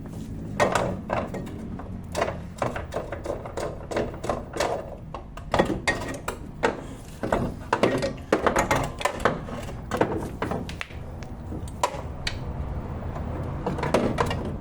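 Irregular metallic clanks, knocks and clicks as a car's front shock absorber strut assembly is worked loose and pulled out of the suspension, over a steady low hum.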